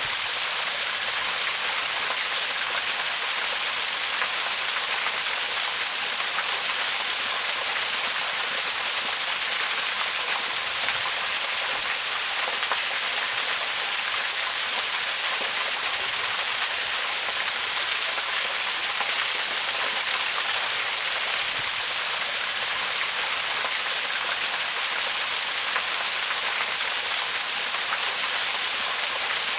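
Waterfall rushing steadily: a dense, even hiss of falling water, weighted toward the higher pitches, with little low rumble.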